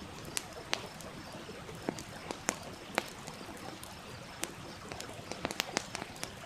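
Wood fire crackling with irregular sharp pops that come thicker near the end, over the steady rush of a stream.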